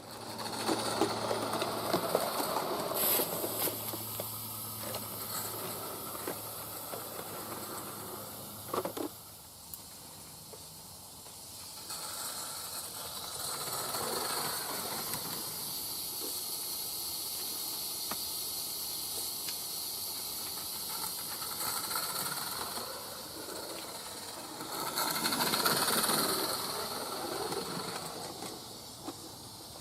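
Roundhouse Lady Anne 16mm-scale live steam locomotive running, with a steady hiss of steam. The sound swells louder near the start and again near the end, as the engine passes close.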